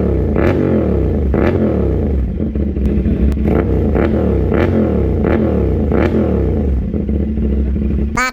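Big motorcycle engine being revved over and over, its pitch rising and falling about once a second.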